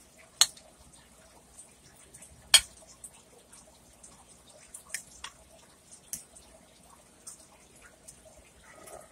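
Close-miked chewing of hamburger steak in gravy: quiet wet mouth sounds broken by a few sharp smacking clicks, the two loudest about half a second and two and a half seconds in.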